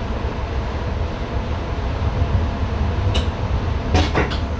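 Steady low rumble and hiss in the driver's cab of an NS ICM electric intercity train, with a sharp click about three seconds in and a quick cluster of knocks near the end.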